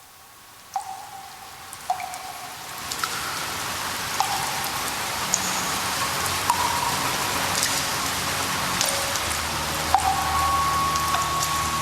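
Rain on the soundtrack fading in to a steady patter over the first few seconds, with single water drops plinking at scattered moments.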